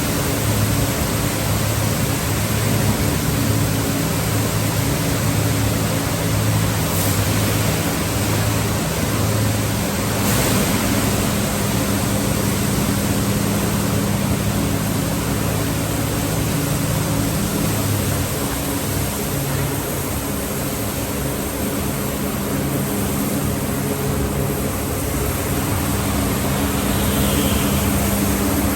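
Automatic car wash tunnel machinery running: a steady rushing of water spray and air with a low motor hum underneath that changes about two-thirds of the way through.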